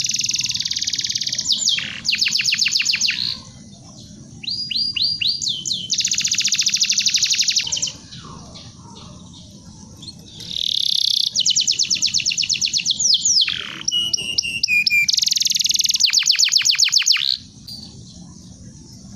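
Domestic canary singing: phrases of fast rolling trills and rapidly repeated high chirps, each a few seconds long, with short breaks between them. The song stops near the end.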